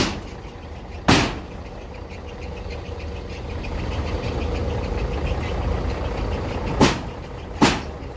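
A motor vehicle's engine running steadily close by, its low rumble growing louder towards the middle. A few sharp knocks come through, one about a second in and two near the end.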